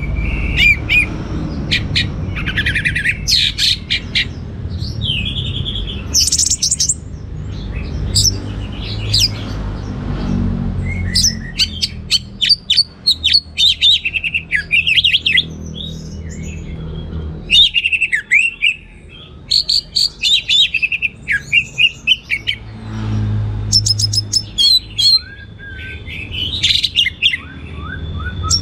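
Orange-headed thrush singing a long, varied song of quick whistles, trills and chirps in ever-changing phrases, over a low background rumble.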